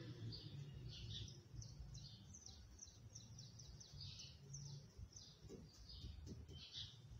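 Faint chirping of small birds: a rapid series of short, high, falling chirps over a low background hum.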